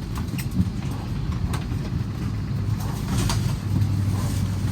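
Steady low hum of a parked airliner's cabin, with scattered clicks and knocks as passengers get up and take their bags.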